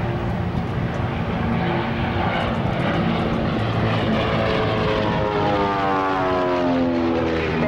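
Propeller aerobatic aircraft's piston engine droning steadily overhead, its pitch sliding down over the last couple of seconds as it passes by.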